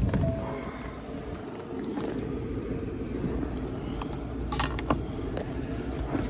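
Car engine idling, heard from inside the cabin as a steady low rumble, with a few sharp clicks between about four and five and a half seconds in.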